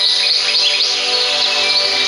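Several birds chirping in quick, overlapping calls, over steady held notes of background music.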